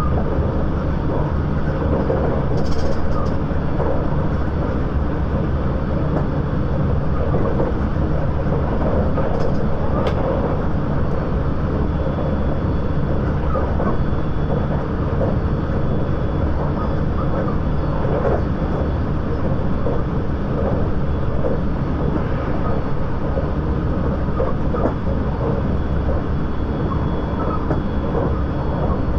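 Interior running noise of a JR 681 series limited express electric train, heard inside a motor car: a steady rumble of wheels on rail and running gear, with a few faint clicks.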